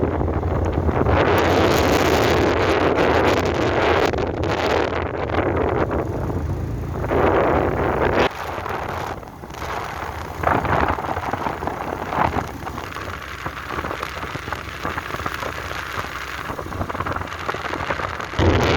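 Wind buffeting the microphone on a moving motorbike, with the bike's engine running low underneath. The wind noise is heaviest for the first eight seconds or so, then eases.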